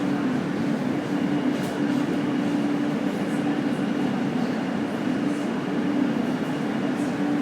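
Subway train running at a steady pace: a continuous rumble with a faint high whine through most of it and a few light clicks.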